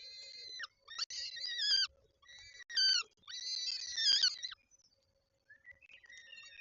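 Peregrine falcon calling at the nest: a run of harsh, wailing calls in four bouts, a short pause about five seconds in, then calling starting again. A faint steady hum lies underneath.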